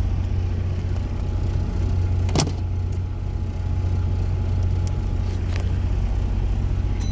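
Steady low hum inside a truck cab, from the truck running and a microwave heating food, with a single sharp click about two and a half seconds in.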